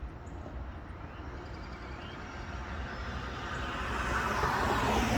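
A passing vehicle's road noise swelling louder toward the end, over a low steady rumble.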